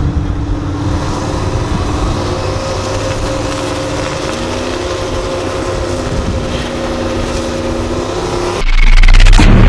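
Two turbocharged LS-powered Chevrolet big-body drag cars running at the starting line, their engine tones held steady and stepping up and down in pitch. A little under nine seconds in, this cuts abruptly to a much louder deep boom.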